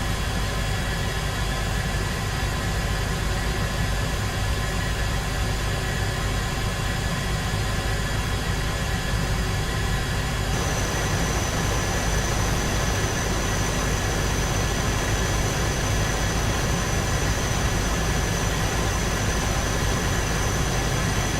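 Aircraft engines running steadily in flight, a constant drone with several steady tones. About halfway through the sound shifts and a high, steady whine comes in.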